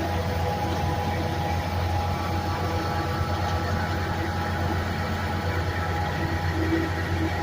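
An engine running steadily: an even low hum with faint steady tones above it.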